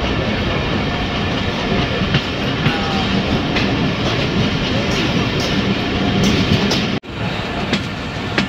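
Passenger train running along the track: a steady rumble with scattered clicks from the wheels, cutting out for an instant about seven seconds in.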